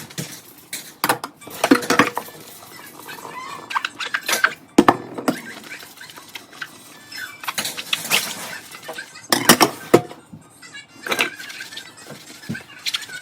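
Dishes and cutlery clinking and knocking against each other as they are washed by hand, in irregular sharp knocks, some ringing briefly.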